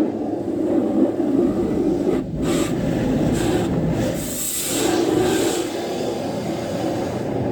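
Steady rushing noise in a self-service car wash bay, with a stretch of higher, hissing spray noise through the middle.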